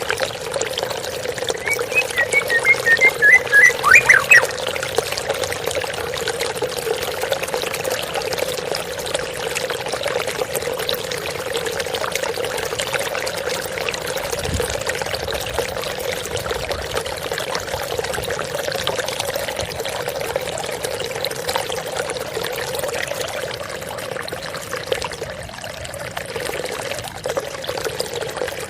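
Water splashing and trickling steadily, as from a small waterfall. About two seconds in, a songbird gives a quick run of repeated whistled notes lasting about two seconds, ending in a falling note.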